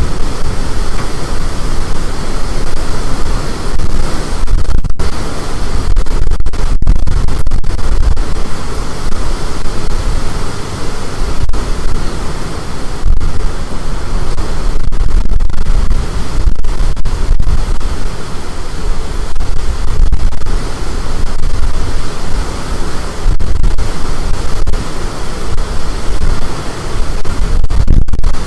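Storm-force wind buffeting the microphone: a loud, unbroken rumbling roar with a hiss over it, swelling and easing with the gusts.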